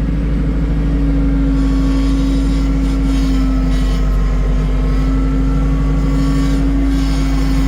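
Tractor engine running at a steady speed, a constant low drone with an even hum.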